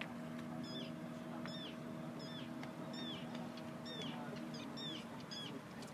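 A bird calling over and over: short, high, downward-curving calls, roughly one or two a second, over a steady low hum.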